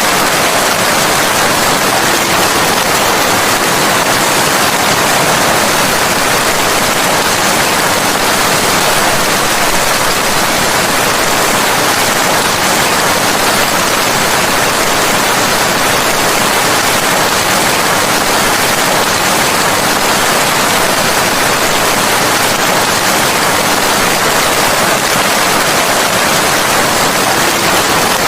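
Steady rain, an even, unbroken hiss with no single drops, thunder or other events standing out.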